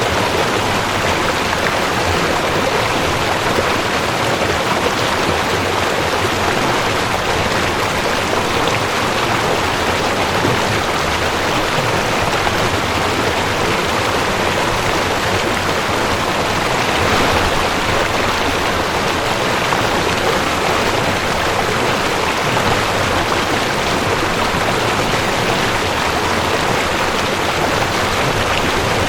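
Mountain stream rushing over rocks: a steady, even water rush with no breaks.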